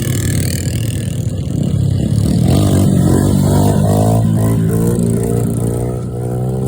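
Motorcycle engine revving and accelerating: its pitch climbs about two seconds in, holds high, then eases a little near the end.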